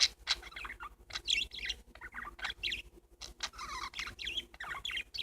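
Pet parakeets chirping and chattering: a run of short, quick high chirps and clicks with brief gaps between them.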